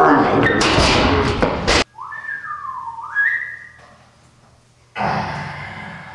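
A loud rush of noise that cuts off abruptly, then a person whistling a few notes that slide down and back up. Another burst of noise comes in near the end.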